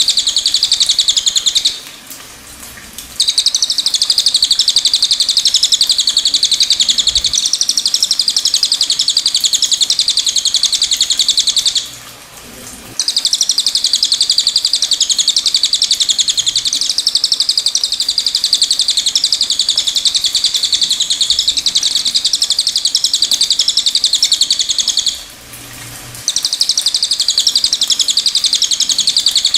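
A cililin bird singing a continuous, very fast high-pitched twittering song, broken by three brief pauses: about two seconds in, about twelve seconds in, and near the end.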